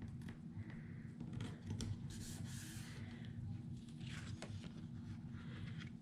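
Faint rustling and light tapping of paper as die-cut pieces are handled and laid down on a scrapbook page, with a longer paper rustle about two seconds in, over a steady low hum.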